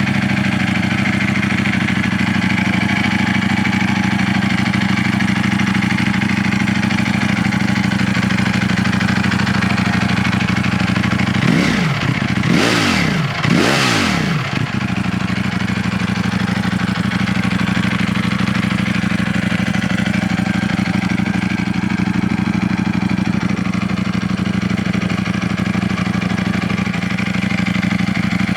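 Ducati Panigale V4S's V4 engine idling steadily through its stock exhaust, with two quick throttle blips about halfway through, each rising and falling in pitch.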